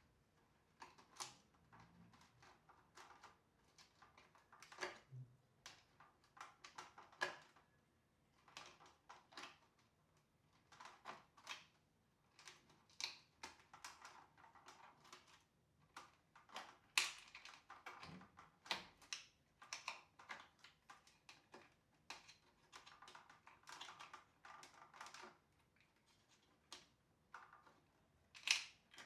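Irregular faint clicks and taps of a Tineco floor washer's parts being handled and taken apart by hand.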